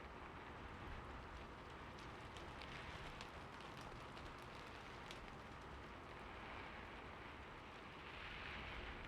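Heavy rain falling steadily as an even hiss, with scattered sharp drop ticks a few seconds in and a brief swell near the end.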